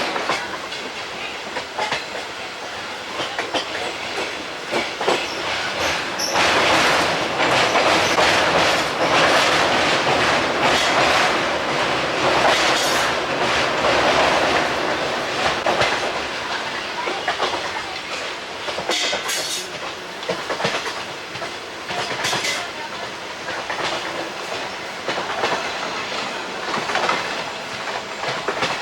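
Passenger train's ICF coaches running along the track, wheels clattering over the rail joints. It grows louder from about six seconds in and eases off again after about sixteen seconds.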